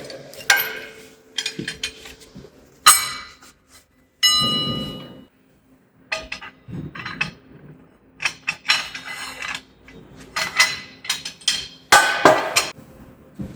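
Steel parts and tools being handled and knocked together during assembly: irregular metal clanks and clinks. About four seconds in, one strike rings on with a clear tone that fades over about a second.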